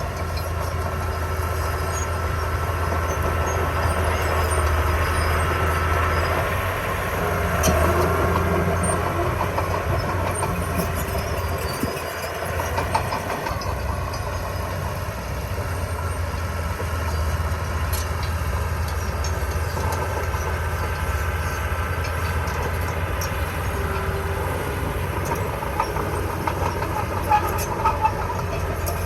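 Small crawler bulldozer's diesel engine running under load, surging now and then, with the rattle and clatter of its steel tracks.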